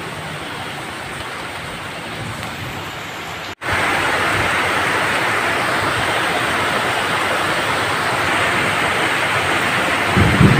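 Steady rain hiss that drops out abruptly about three and a half seconds in and resumes straight away as heavier, louder rain. A low rumble of thunder starts to build near the end.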